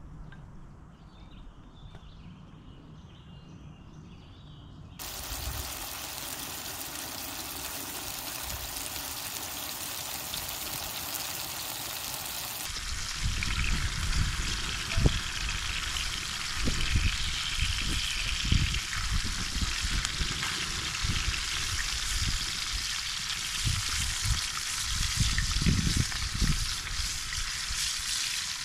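Steady hiss of running river water. It changes abruptly twice, and from about halfway uneven low rumbling thumps are mixed in.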